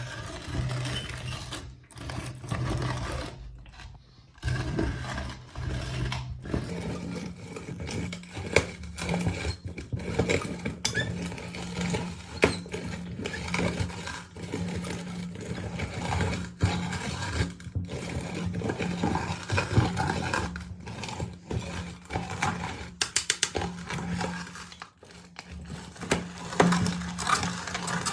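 Electric meat grinder running while grinding hard lollipop candy: a steady motor hum with many irregular cracks and crunches. The hum steps up in pitch about six seconds in.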